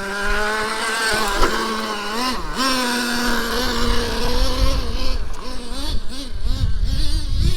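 Traxxas T-Maxx 3.3's small two-stroke nitro engine running and revving up and down with a wavering pitch. Toward the end it falters and fades as the truck runs out of fuel.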